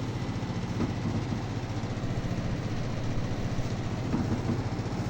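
Walton split air conditioner's outdoor unit running: compressor and fan give a steady low hum.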